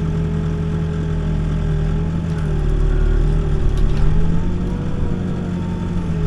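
Backhoe's diesel engine running steadily, with a wavering whine over its drone. It gets louder for a stretch about three seconds in, with a few sharp clicks near the middle.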